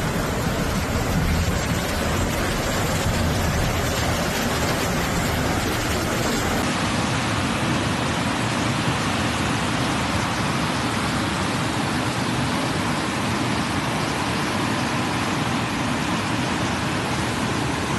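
Steady, even noise of heavy rain and rushing water, with a slight change in its character about seven seconds in.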